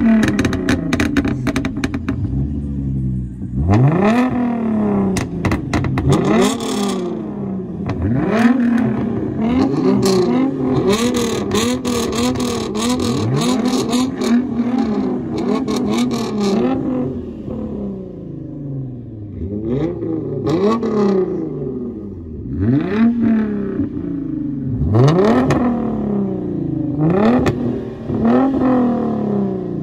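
Car engine revved over and over, each rev sweeping up in pitch and dropping back, a couple of seconds apart. A rapid run of sharp exhaust crackles comes in the first two seconds.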